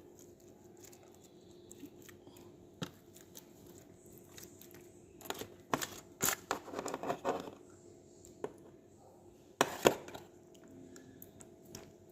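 Kitchen handling sounds as glazed chicken pieces are turned over: scattered clicks, taps and scrapes of utensils against the baking dish, with a sharp knock near the end.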